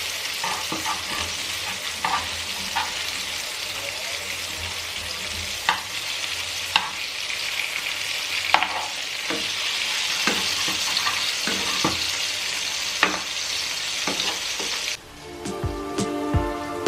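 Food sizzling in hot oil in a pan while being stirred, with a cooking utensil clicking and scraping against the pan now and then. The sizzle cuts off suddenly near the end and music comes in.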